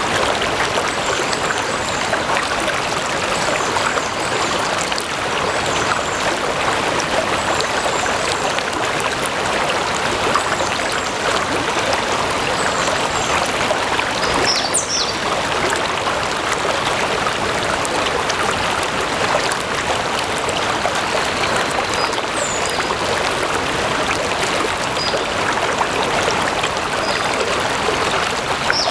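Stream of water flowing, a steady even rush with no change in level. A few faint high bird chirps come through now and then.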